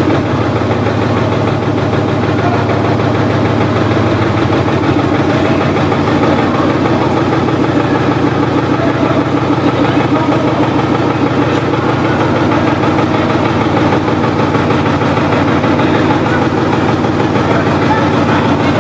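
A Marshall tractor's diesel engine running steadily, with a fast, even beat of firing pulses.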